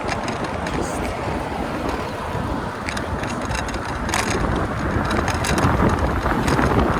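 Wind rushing over the microphone of a camera riding along on a moving bicycle, with a steady low rumble and scattered clicks and rattles.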